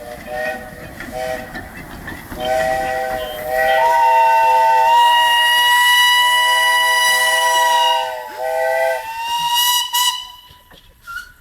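Several narrow-gauge steam locomotive whistles blowing together: a few short toots from a lower whistle, then a long, louder, higher-pitched whistle held about four seconds with the lower one sounding over it. All of them stop about ten seconds in, with steam hissing.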